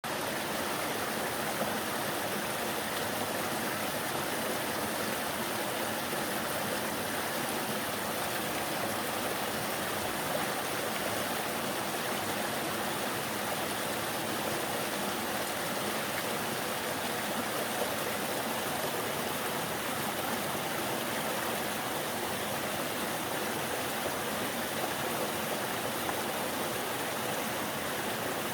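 Mountain stream running with meltwater during the thaw: a steady, unbroken rush of water.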